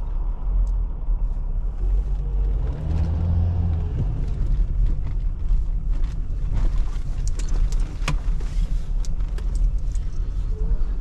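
Chrysler 300C's 3.0 CRDi diesel V6 running as the car drives, a low steady rumble that grows stronger for a moment between about two and four seconds in.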